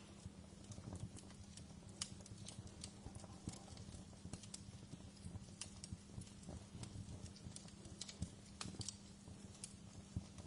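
Wood fire in a fireplace crackling: irregular sharp pops and snaps over a low, steady rumble.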